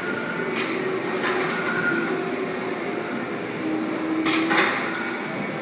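Cheddar curd mill running, chopping loaves of curd into small pieces: a steady mechanical whir with faint shifting hums, and brief rushes of noise about half a second in, just over a second in, and again after four seconds.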